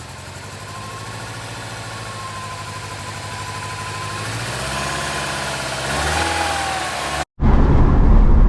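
Rebuilt turbocharged Mini engine with a catless downpipe running on its first startup, steady and slowly getting louder, then revving up and back down about five seconds in. Near the end the sound cuts abruptly to a louder low rumble of the car under way.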